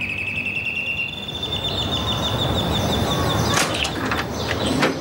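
Birds trilling: fast, high twitters held on one pitch, with a second, slightly higher trill that fades out after about three and a half seconds. A few sharp knocks near the end.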